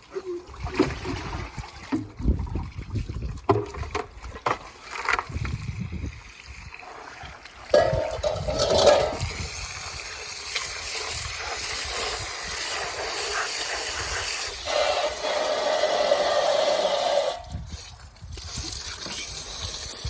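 Irregular knocks and handling clatter. About eight seconds in, water starts running and splashing steadily from a tap or hose, stops near the end, then starts again.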